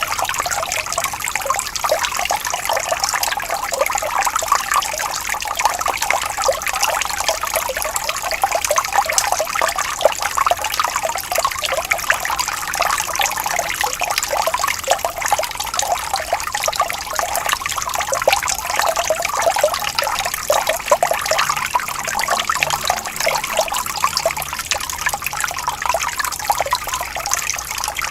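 Water trickling and bubbling steadily, as in a small stream or brook, with a dense patter of small splashes.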